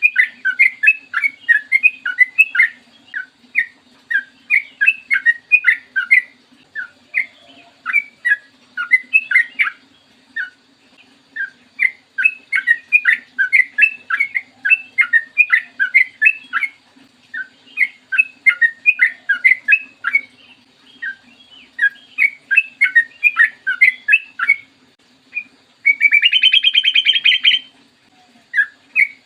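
Yellow-vented bulbul singing long runs of rapid, bubbling chattering notes in phrases broken by short pauses, with a harsh buzzy rattle near the end. A faint steady hum runs underneath.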